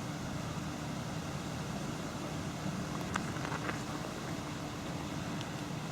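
Steady background noise with a faint low hum and a few light ticks scattered through it.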